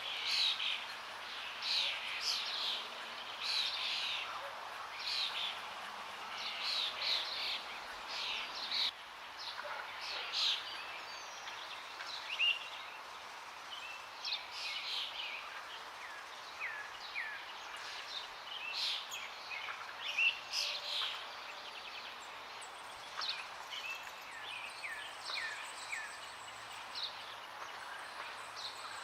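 Forest birds chirping and singing in many short, quick calls, some of them brief downward sweeps, over a steady hiss of running water.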